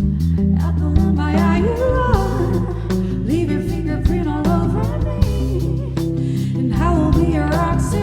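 Live band playing a soul-funk groove: electric bass notes and drums under guitar, with a melodic lead line sliding and wavering in pitch over the top.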